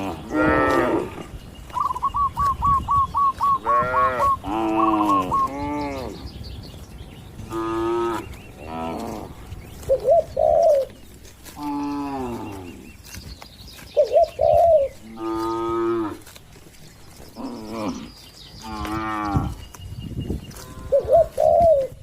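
Cattle mooing again and again, about ten calls of around a second each, overlapping at times, with the pitch rising and falling within each call. A bird gives a fast run of chirps about two to three seconds in.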